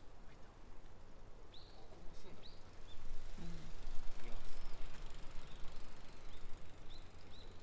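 Outdoor background noise, a steady low rumble that swells for a couple of seconds in the middle, with a small bird's short chirps heard several times.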